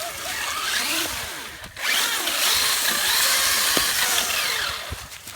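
Traxxas Stampede 4x4 VXL RC truck's brushless electric motor whining as it revs up and down in rising and falling glides, dropping out briefly under two seconds in.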